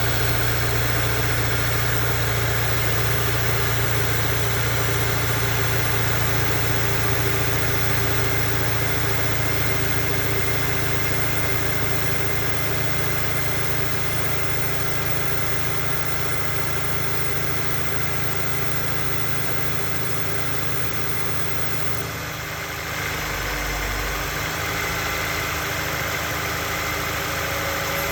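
Honda S2000's four-cylinder engine running steadily, with a thin, steady high whistle over the engine note. The sound shifts slightly about three-quarters of the way through.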